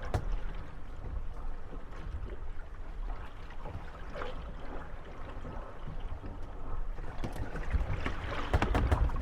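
Moored wooden gondolas rocking on the swell, knocking and creaking against each other and the landing stage, over water lapping and a steady low rumble. A few single knocks come early and about four seconds in, then a quick clatter of knocks builds near the end.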